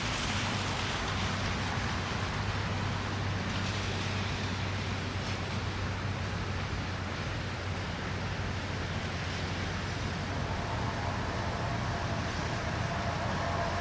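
Steady city traffic noise: a continuous hiss of passing vehicles on snowy roads over a low, even hum, with faint tones coming in near the end.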